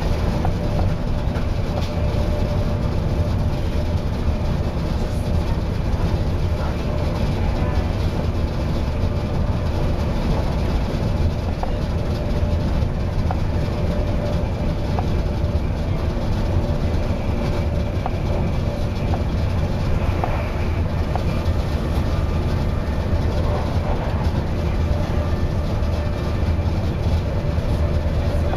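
Passenger train running at speed, heard from inside the carriage by the doors: a steady low rumble of wheels on the rails with a constant drone.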